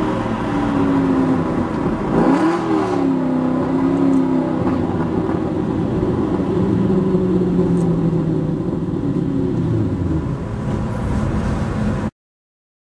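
Aston Martin V8 Vantage's V8 running through a Kreissieg valved aftermarket exhaust. About two seconds in the revs rise and fall quickly, then the engine note holds low and slowly drops. The sound cuts off suddenly near the end.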